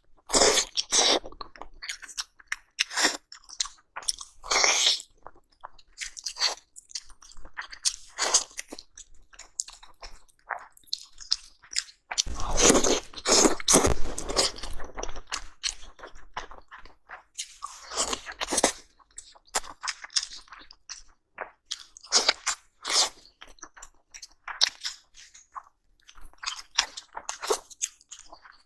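Close-miked mukbang eating sounds: a person biting and chewing braised steak, irregular wet mouth sounds with a louder run of bites about halfway through.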